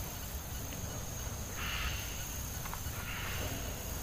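Rainforest ambience: a steady high-pitched insect drone, with two brief buzzing bursts, one about a second and a half in and another near three seconds.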